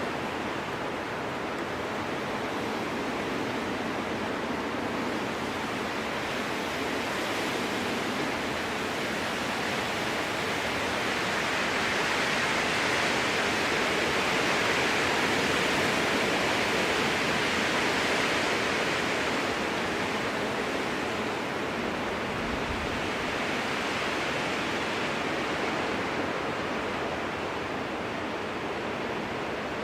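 Strong wind rushing through spruce trees, a steady roar that swells in a long gust about halfway through and then eases off again.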